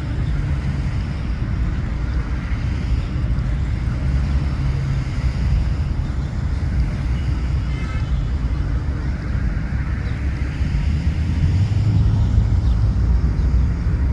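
Steady low rumble of road traffic on a city street, growing slightly louder near the end.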